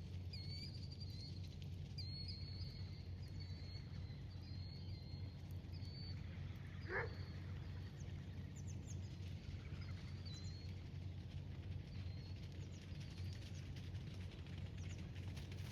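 Small birds chirping repeatedly in short, high calls over a steady low rumble. About seven seconds in there is a single rising whistle-like glide.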